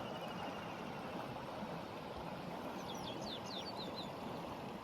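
A bird gives a quick run of short, high, falling chirps about three seconds in, over a steady outdoor background rush.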